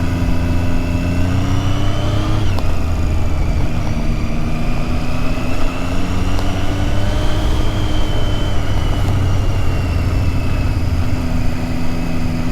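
Motorcycle engine running under the rider at low, varying revs, its note rising slowly and falling back a couple of times.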